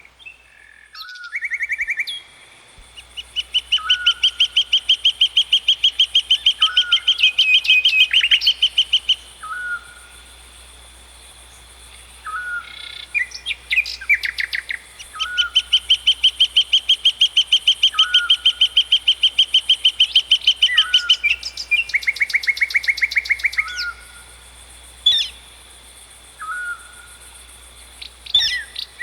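Birds singing. One bird gives two long, fast, even trills of about six seconds each, while another repeats a short call about every second and a half.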